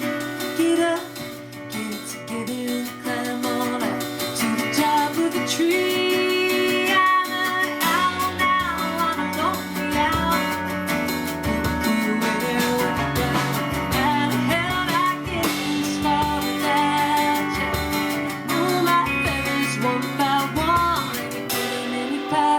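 Live acoustic folk music: plucked and strummed acoustic guitar under a sung melody, with low bass notes joining about eight seconds in.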